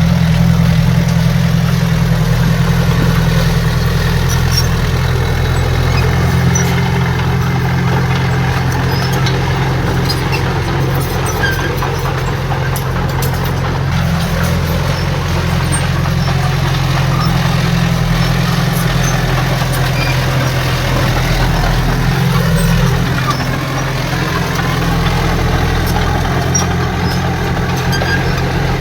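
Heavy diesel engine of earthmoving equipment running steadily, with a brief drop in level a little past the middle.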